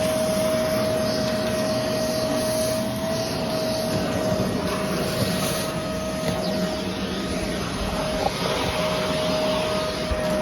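Vacuum cleaner running steadily: an even rush of air with a steady whine, and a small knock about eight seconds in.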